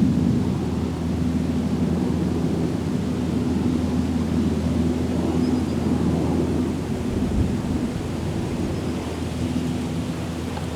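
Steady low engine drone from a distant motor, with a humming tone in it, slowly fading toward the end. Two faint high bird chirps come through over it.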